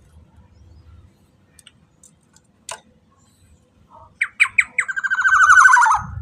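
Black-naped oriole calling: a few short sharp notes, then a loud, harsh, rasping call that slides slightly down in pitch and lasts about a second and a half. A single click comes before it, about a third of the way in.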